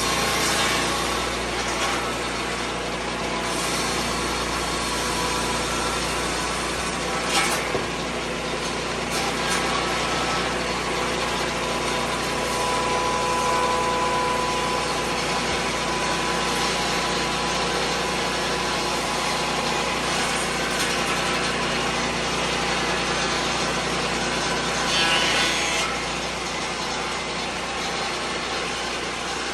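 Lucas Mill 10-30 swing-blade sawmill cutting a white pine log, its engine running steadily under load as the circular blade saws through the wood.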